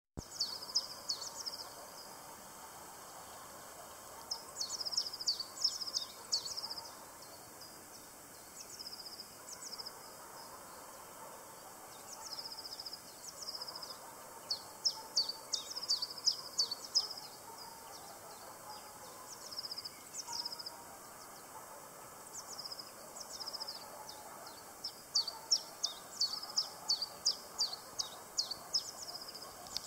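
A small songbird singing: bouts of quick, high chirping notes, each bout a second or two long and repeated every few seconds, over a steady outdoor background hiss.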